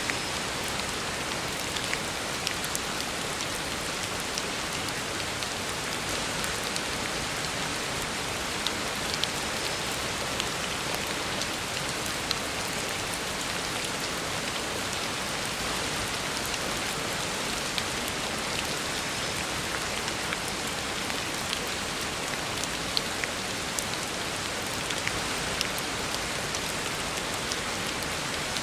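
Heavy rain falling steadily on a road surface, an even hiss with scattered sharper drop splats.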